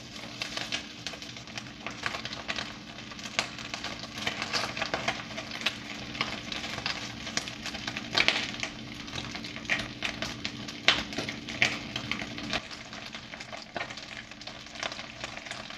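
Marinated chicken wings pan-frying in hot oil in a wok with ginger slices: a steady sizzle with frequent sharp pops and crackles.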